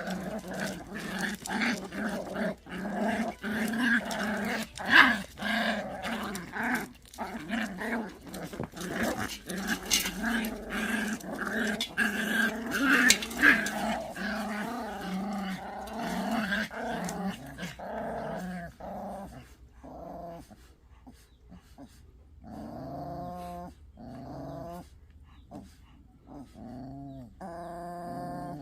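Pungsan dogs growling and snarling at each other in a dominance scuffle, with sharp snaps mixed in. After about eighteen seconds it turns quieter, into separate pitched whines and growls.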